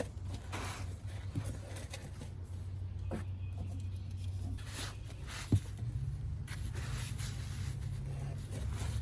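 Scattered scraping and light knocking of the oil pan and tools being worked under the car, with one sharp knock about five and a half seconds in, over a steady low hum.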